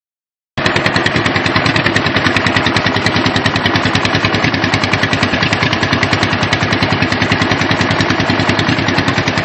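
1958 John Deere 420C crawler's two-cylinder engine running on its first startup, its exhaust popping in a rapid, even beat; it comes in suddenly about half a second in.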